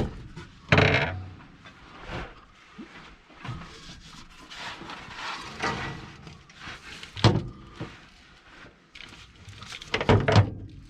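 Irregular clunks and knocks of a dump truck's shift lever being pushed down and springing back up inside the cab, with rattling between. The loudest knocks come about a second in, about seven seconds in and near the end.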